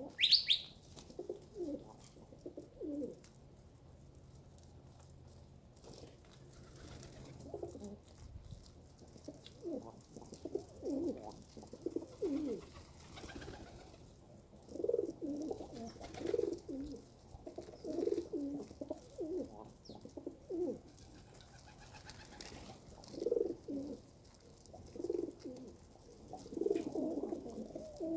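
Pigeons cooing, low calls coming again and again, closer together in the second half. A single short high chirp comes right at the start.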